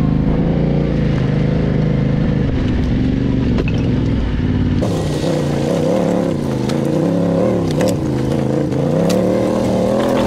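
Yamaha Ténéré adventure motorcycle's engine running at low speed on a rocky trail, its revs rising and falling with the throttle. About halfway through a low rumble drops away abruptly and the engine sounds clearer, with a few sharp clicks.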